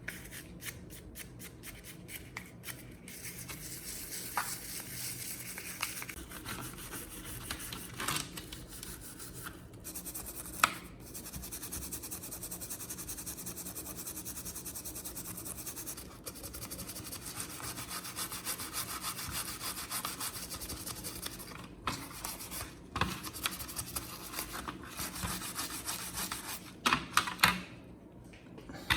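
Hand work on a part: repeated rubbing and scraping strokes, quick and regular at first, then a steadier rasp, broken by a few sharp knocks.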